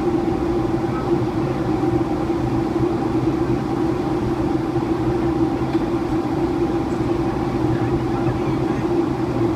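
Steady in-flight cabin drone of a Boeing 757 descending to land: the constant rush of airflow with an even engine hum beneath it, heard from inside the passenger cabin.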